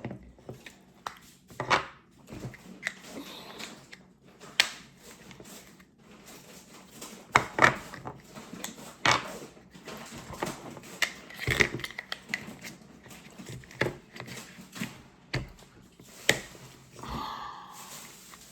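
Irregular sharp clicks and taps of hard plastic toys and packaging being handled, with a few louder knocks.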